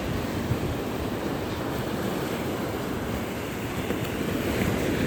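Ocean surf: a steady rush of breaking waves, growing a little louder near the end.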